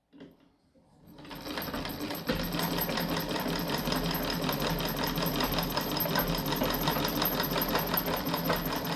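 Restored 1870 Singer sewing machine stitching, with a rapid, even mechanical clatter. It starts about a second in, picks up speed over the next second, then runs steadily.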